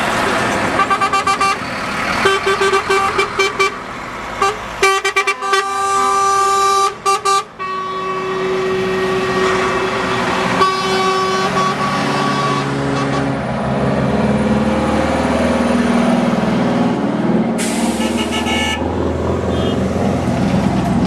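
Truck horns honking: a rapid run of short toots, then several long held blasts, over the sound of truck engines running.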